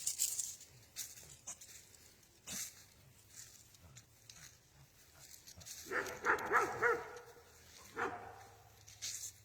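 A dog barking: a quick run of about four short, high barks about six seconds in, then one more bark near eight seconds, with faint scattered clicks in between.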